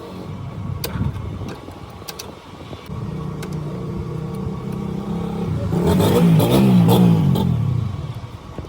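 A vehicle engine running, growing louder and revving up and down about six to seven seconds in, then dying away; a few sharp metal clanks come early on.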